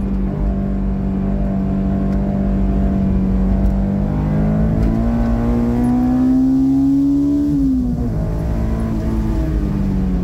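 Honda S2000's 2.0-litre four-cylinder engine heard from inside the car on track: a steady note at first, then rising in pitch under acceleration for about three seconds before the note drops sharply near the end.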